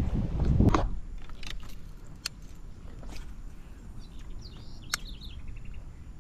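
Outdoor ambience: a bird chirps briefly in the second half, amid several sharp clicks and a low rumble in the first second.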